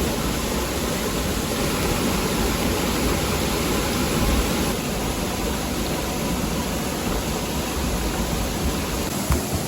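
Waterfall pouring, a steady dense rush of water, with a couple of soft knocks just before the end.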